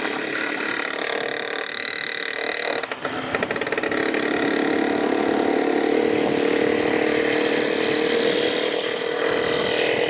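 A small engine running steadily, with a brief dip and a few clicks about three seconds in, then running louder and steady.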